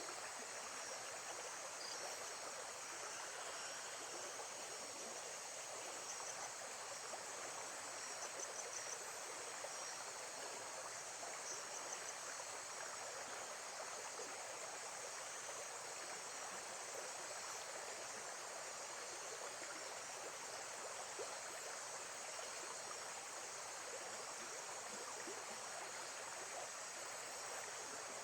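Nature soundscape of steady running water with a constant high insect chorus, like crickets, above it.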